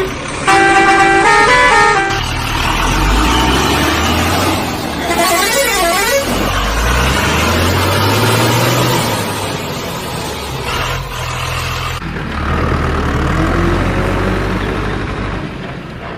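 A vehicle horn sounding a short stepped tune, then a heavy engine running and revving up and down, with a warbling siren-like tone briefly about five seconds in.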